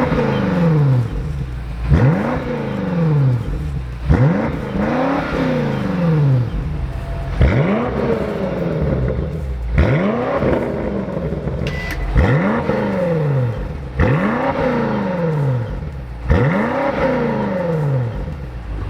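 BMW X5M/X6M S68 twin-turbo V8 breathing through a Dinan valved exhaust system, revved in repeated throttle blips about every two seconds, each rising sharply and falling back.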